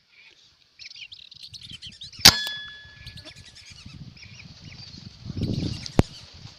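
Birds chirping steadily, broken by a single loud metallic clang with a short ring about two seconds in and a second sharp crack near the end, over a low rumble.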